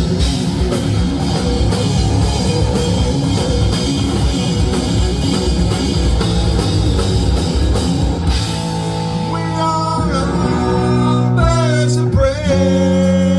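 Live rock band playing loud, with drum kit and electric guitars. About eight seconds in the drums stop, leaving held guitar notes with bending pitches that ring on to the end.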